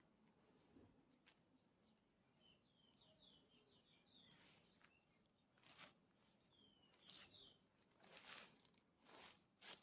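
Near silence outdoors with a small bird chirping faintly in two short runs of quick notes, and a few faint brief rustles toward the end.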